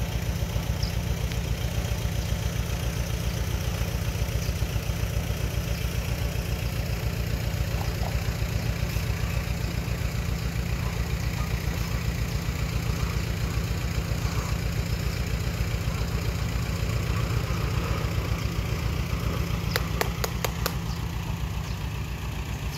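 Diesel engine of earthmoving machinery running steadily, with a rapid low pulsing. A quick run of sharp metallic clicks comes about twenty seconds in.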